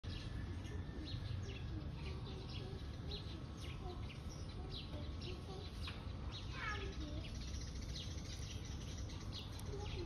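Birds chirping: many short, high chirps repeating throughout, with one longer call falling in pitch about two-thirds of the way in, over a steady low background rumble.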